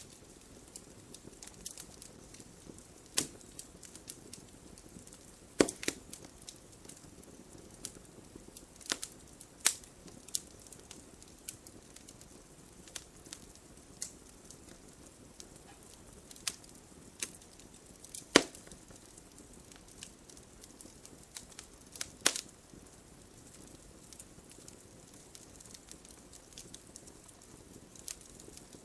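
Wood campfire burning with a low steady hiss and irregular sharp crackles and pops, a few of them much louder than the rest.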